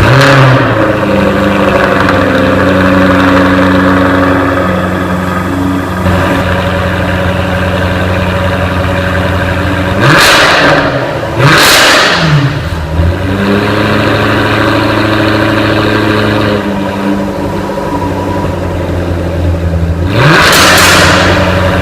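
2016 Mercedes-AMG GT S's 4.0-litre twin-turbo V8 starting with a flare of revs and settling into a steady idle. It is blipped twice in quick succession about ten seconds in, and once more near the end.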